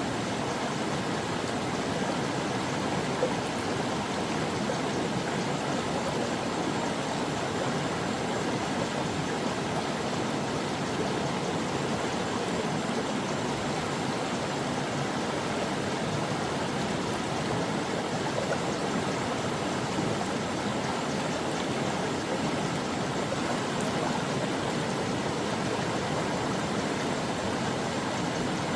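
Stream water flowing steadily over rocks, a continuous even rush with small splashes and gurgles.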